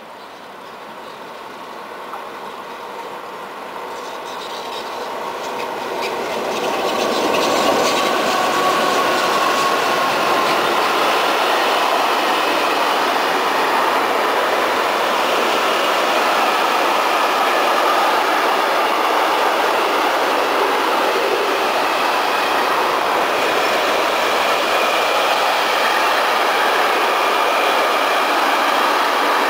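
A train approaching, growing louder over about seven seconds, then running past close by with a steady rush of wheels on rails, clickety-clack over the rail joints, and thin whining tones of wheel squeal.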